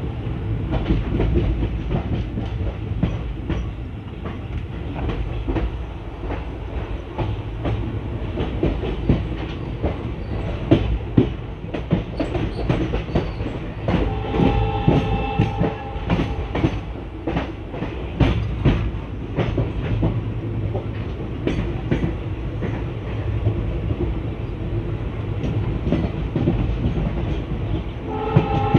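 ICF passenger coach rolling out of the station, its wheels clacking over rail joints and yard points on top of a steady rumble, the clacks thickest through the middle. A train horn sounds for about two seconds around halfway and again at the very end.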